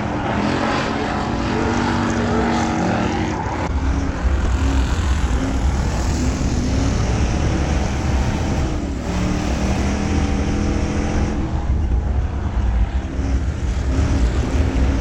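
Bomber-class stock cars racing on a dirt oval, their V8 engines revving and running hard with pitch rising and falling as they pass. The low rumble grows louder about four seconds in.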